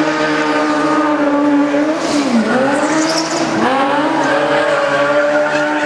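Stunt car's 1300 cc motorcycle engine running at high revs, the note dropping and climbing back about two seconds in, then holding steady.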